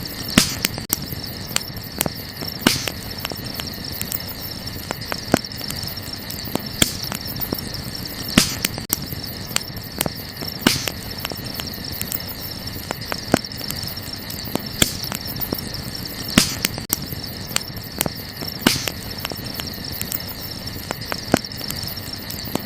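Wood fire crackling, with irregular sharp pops, the louder ones every second or two. Under it, a steady high chorus of night insects.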